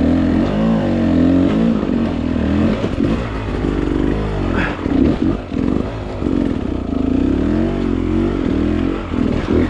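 Dirt bike engine revving up and down as it is ridden slowly over rocky terrain, the throttle opening and closing every second or so. A brief knock comes about halfway through.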